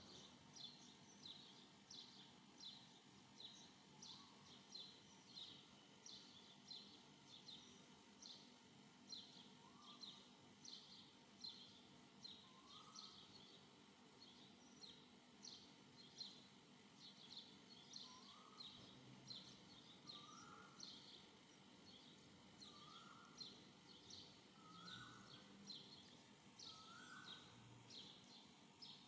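Faint birdsong: short high chirps repeating about twice a second, joined in the later part by a lower, rising call every second or two.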